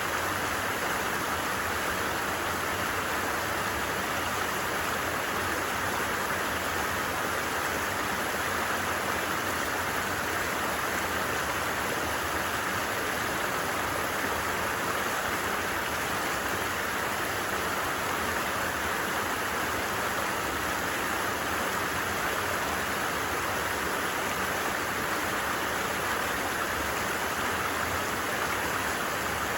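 A creek running steadily: an even, unbroken rush of flowing water.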